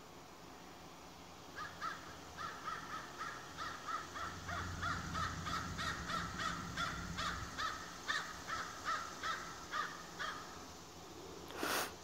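A bird calling in a long run of short repeated calls, about three a second, stopping shortly before the end, followed by a brief burst of noise.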